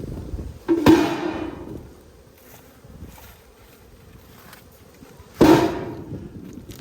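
Two heavy knocks about four and a half seconds apart, each ringing briefly: Langstroth hive boxes or the lid being set back down as the hive is closed up.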